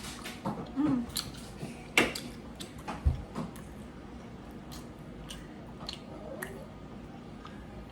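A person chewing food close to the microphone, with scattered small clicks and a few sharper knocks, the loudest about two seconds in.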